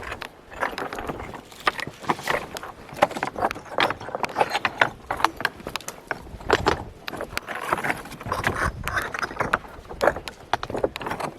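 Hikers' footsteps on a trail: irregular steps and scuffs, one after another.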